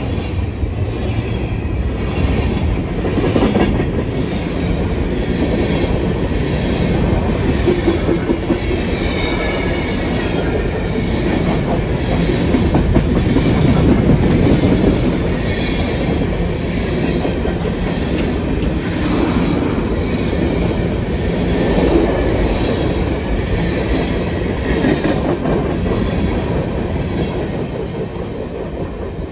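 A train rolling past close by: a steady rumble of steel wheels on rail, with an even clickety-clack about once a second as the wheels cross rail joints, and a wavering high squeal of wheels on rail. It fades a little near the end.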